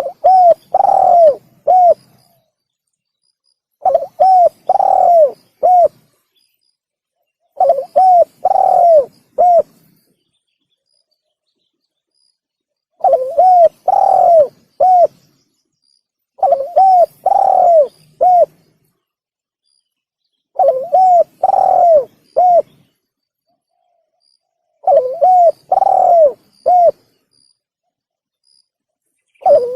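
Spotted dove (tekukur) cooing, played as a lure call. It gives a phrase of three or four coo notes, the middle one longer and arching, seven times in all, about every four seconds, with dead silence between phrases.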